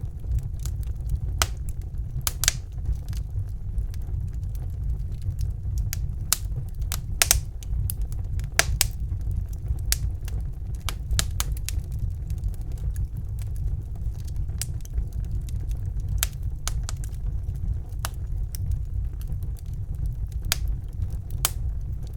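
Wood fire crackling in a fireplace: sharp, irregular pops and snaps over a steady low rumble of flame.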